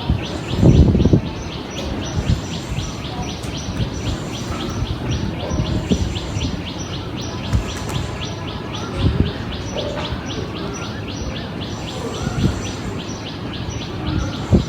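A bird chirping rapidly and evenly, about five short falling chirps a second without a break. A few louder low sounds come now and then, the strongest about a second in.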